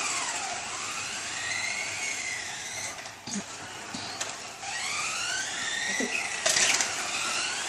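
Electric motors of several 1/10-scale RC race cars whining, the pitch rising and falling over and over as the cars speed up and slow down, with overlapping whines from more than one car. A few short clicks and a brief scuffing burst about six and a half seconds in.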